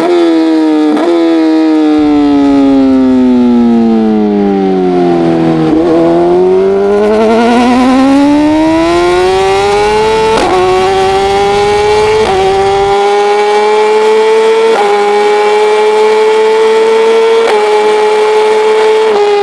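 Racing motorcycle engine at race speed: the revs fall steadily for about six seconds as it slows for a corner, then climb again under hard acceleration. In the second half they rise in steps with four quick upshifts about two seconds apart.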